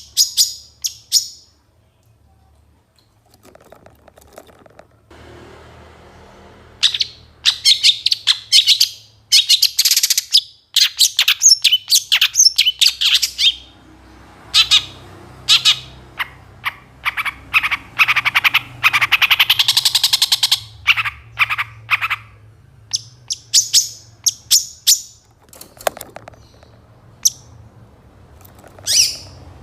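A long-tailed shrike singing hard in the full, mimicry-packed song that keepers call 'full isian'. It gives quick runs of high chirps and trills, with a lull a few seconds in, a long dense stretch of song, then scattered single notes near the end.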